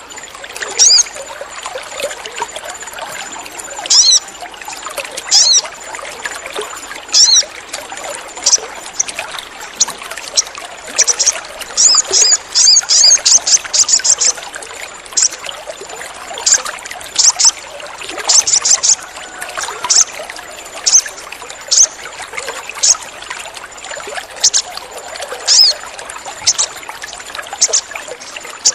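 Sogon songbird giving short, sharp, high-pitched chirps, one every second or two, with a quick chattering run about halfway through. Underneath is a steady hiss like trickling water.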